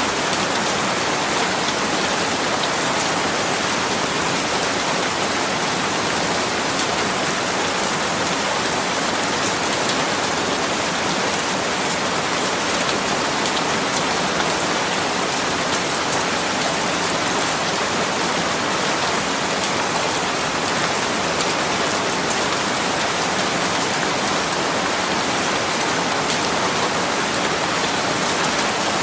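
Steady rain falling on a surface, an even hiss of many fine drop ticks with no change in intensity.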